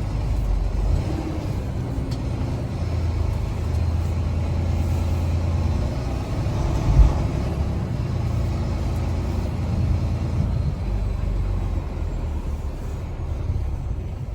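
Semi truck's diesel engine running with a steady low drone as the rig moves, with one short thump about halfway through.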